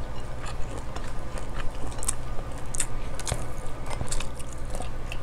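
Close-miked chewing and eating mouth sounds: scattered wet clicks and smacks, over a low steady hum.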